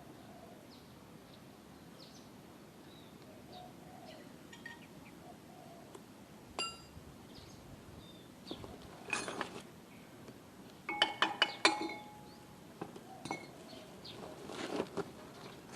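Metal tools clinking against metal now and then, each clink ringing briefly, with a quick run of several loud clinks about eleven seconds in.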